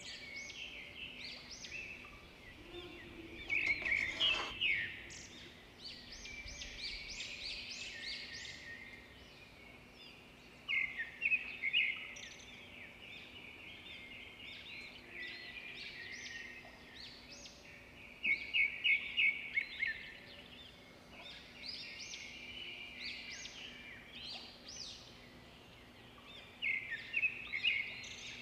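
Small birds chirping, with quick runs of high chirps every several seconds, over a faint steady hum.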